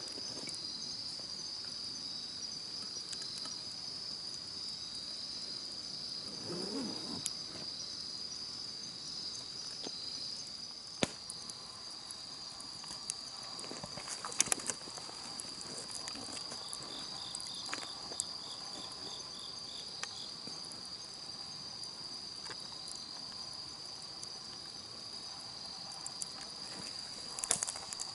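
Steady chorus of crickets and other night insects, with a campfire crackling and giving a few sharp pops, the loudest about eleven seconds in, about fourteen seconds in, and near the end.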